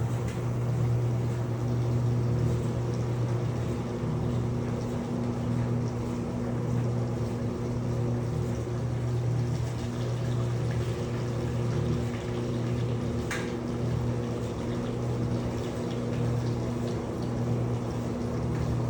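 Electrolux LPE16 washing machine running through its wash cycle: a steady motor or pump hum with water moving inside, and a single short click about two-thirds of the way through.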